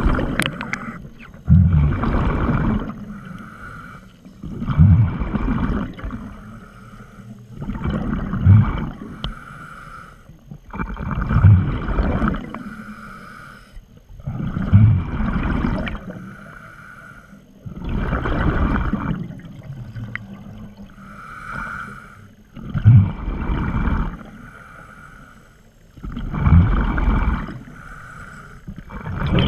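Scuba diver breathing through a regulator underwater: a hiss on each inhale, then a gurgling rush of exhaled bubbles, repeating about every three and a half seconds.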